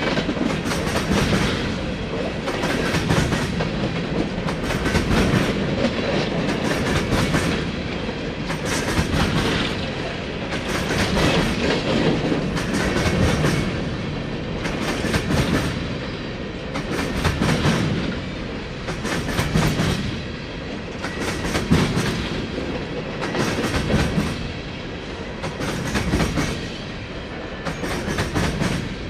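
Empty coal train's cars rolling past, steel wheels clacking over the rail joints, the clatter swelling and easing in a regular beat roughly every two seconds.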